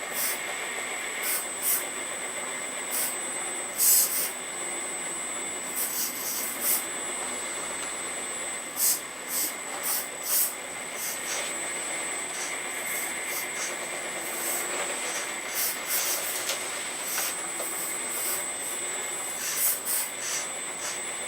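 Electric hydraulic pump of an Earth Digger 4200XL RC excavator running with a steady high whine, broken many times by short bursts of high hiss as the hydraulics work the arm and bucket.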